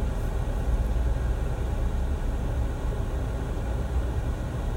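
Steady low rumble of a car's engine and road noise, heard from inside the cabin while crawling along in slow rush-hour traffic.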